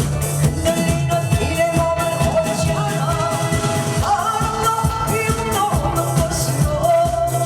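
Amplified live song: a voice singing long held, wavering notes over a band-style accompaniment with a steady drum beat and bass.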